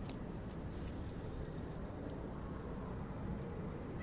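Steady low rumble of distant traffic, with a few faint clicks about half a second in.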